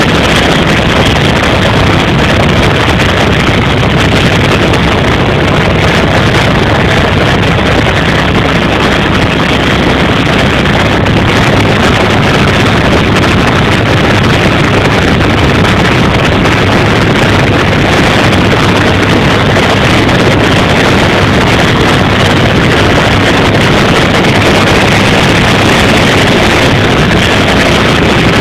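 Helicopter in flight: a loud, steady drone of rotor and engine, with a constant low rumble and no change in pitch or level.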